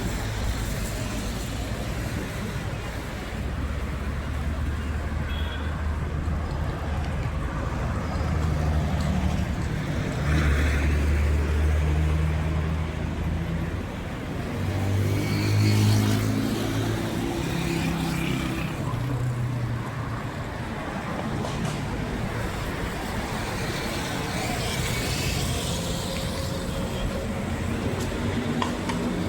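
A motor vehicle running with road noise, its engine tone shifting up and down in steps.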